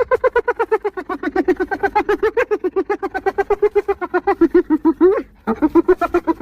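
Spotted hyena laughing: a rapid run of short, pitched giggling notes, about eight or nine a second, that breaks off about five seconds in and starts again half a second later.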